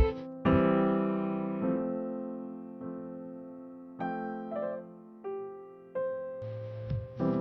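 Background music: slow electric piano chords, each struck and left to ring out, with new notes coming about every second.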